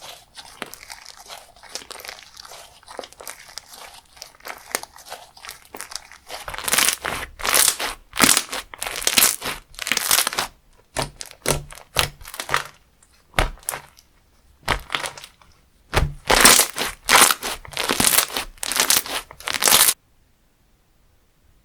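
Slime squeezed and pressed by hand, giving a crinkly crackle: soft at first, then loud runs of crackling bursts with single pops between them. It cuts off suddenly near the end.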